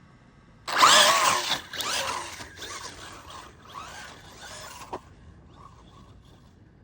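Brushless motor of a DEERC Velocity RC car whining in rising and falling surges as it speeds off, with tyre noise. It is loudest at the launch, surges twice more while fading, and stops with a sharp knock about five seconds in.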